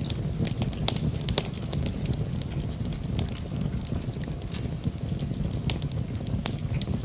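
Wood fire burning in a fireplace: a steady low rumble of flames with irregular sharp crackles and pops of burning logs, several a second.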